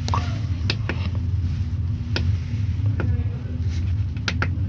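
A steady low hum with a few sharp clicks scattered through it.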